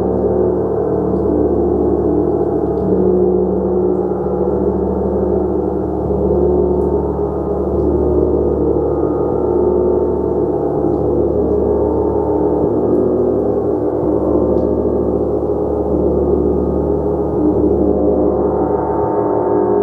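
Gong played continuously, a dense sustained wash of many overlapping ringing tones that swells and eases gently without ever dying away.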